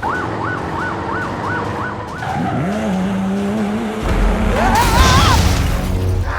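Cartoon vehicle sound effects: a pulsing siren-like tone repeating about three times a second, then a steady engine drone, then a loud rushing noise with rising whistles near the end.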